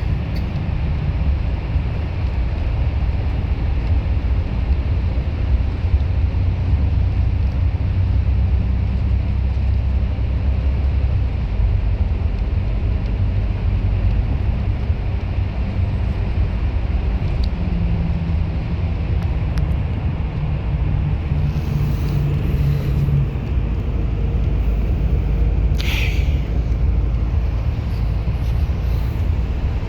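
Bus running noise: a steady low rumble of engine and road, with an engine note holding steady for a few seconds past the middle and a brief hiss near the end.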